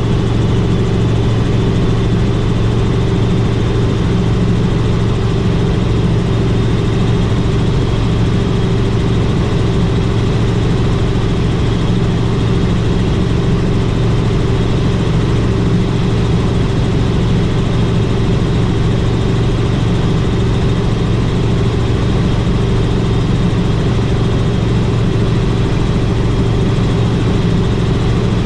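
Helicopter in flight: a steady drone of engine and rotors with a strong low hum, unchanging throughout.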